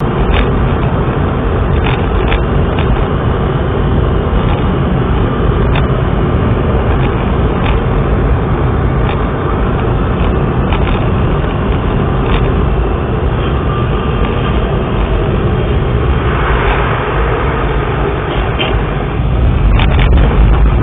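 Steady, loud vehicle noise, engine and road rumble as picked up by an onboard camera, with scattered short clicks and knocks and a louder stretch near the end.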